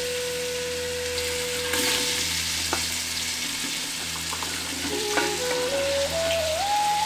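Onions and tomatoes sizzling in hot oil in a metal cooking pot, with chopped vegetables tipped in from a brass plate. A soft background melody holds one long note that steps up in pitch near the end.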